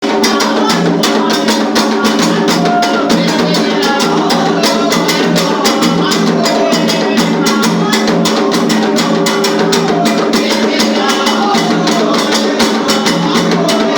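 Afro-Brazilian ritual drumming: hand drums and percussion playing a fast, steady rhythm that runs on without a break.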